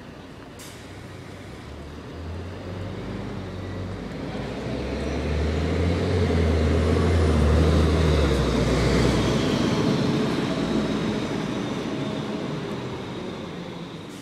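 MAN NG 313 articulated city bus engine pulling away and driving past, growing louder to a peak about halfway through, then fading. The engine note steps up in pitch twice as it accelerates through the gears.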